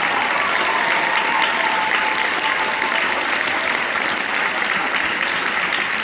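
Audience applauding loudly and steadily, with a few cheers and whoops early on.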